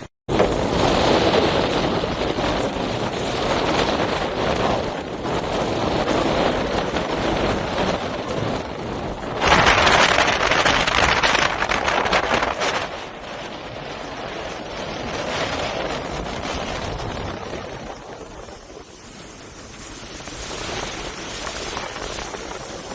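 Strong wind buffeting the microphone over rough, crashing sea surf: a steady rushing noise that swells loudest for about three seconds, some ten seconds in.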